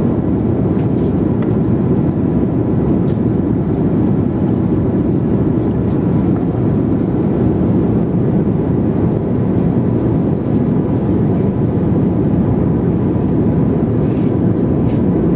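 Airliner cabin noise in flight: a loud, steady low rumble of engines and rushing air that does not change.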